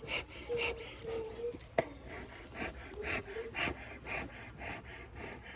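Rhythmic rasping rub, about three or four strokes a second, with a sharp click just under two seconds in. Honeybees buzz in short spells close by.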